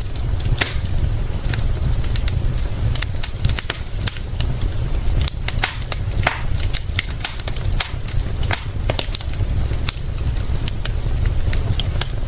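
Wood fire crackling, with frequent sharp irregular pops and snaps, over a steady low rumble.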